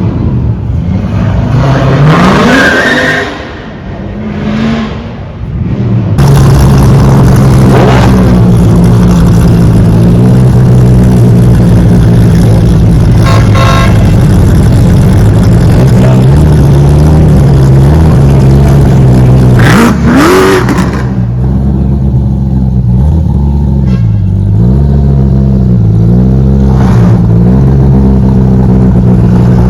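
A car's engine revving up early on, then running loud and steady close by, with a quick rev about two thirds of the way through and small rises and falls in pitch near the end.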